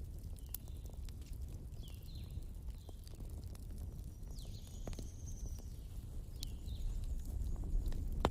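Wood fire crackling, with sharp irregular pops over a steady low rumble. Short high chirps are heard several times.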